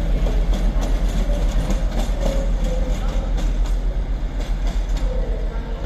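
Class 56 diesel locomotive moving on the rails, a steady low rumble with its wheels clicking over rail joints.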